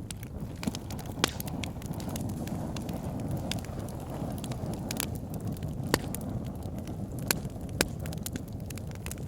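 Wood fire burning in a log burner: a steady low rumble of flames with scattered sharp crackles and pops from the logs, the loudest pops about a second in and then around six, seven and eight seconds in.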